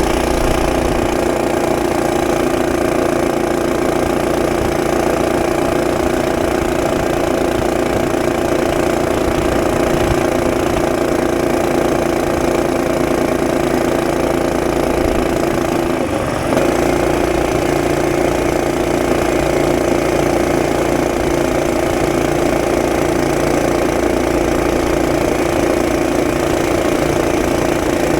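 Mini bike's small engine, its governor removed, running steadily at high revs with a brief dip about two-thirds of the way through.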